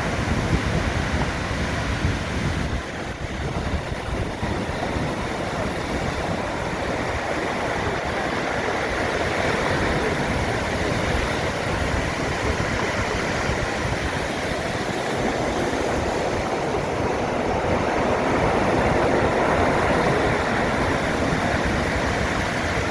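Rough, storm-driven sea surf: a steady, loud roar of breaking waves that swells slightly later on, with wind buffeting the microphone in the first few seconds.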